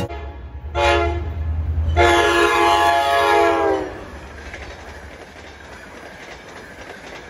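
Train horn sounding a short blast and then a longer one over the rumble of a locomotive, then a quieter, steady rolling noise of passenger coaches passing over the rails.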